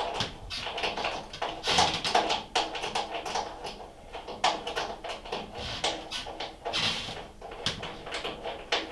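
Socket ratchet clicking in short runs, with light metal taps, as a nut is worked off a mounting bolt.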